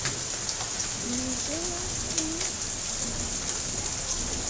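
Heavy rain falling steadily in a thunderstorm, a constant hiss with scattered drop taps.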